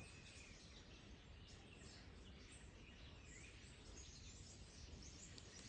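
Near silence: room tone with faint, scattered bird chirps in the background.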